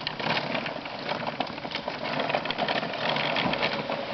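Lawn mower running with a steady rattling clatter of fast clicks.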